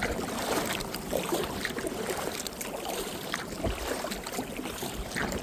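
Water lapping and trickling around a kayak, with scattered small splashes and a low wind rumble on the microphone.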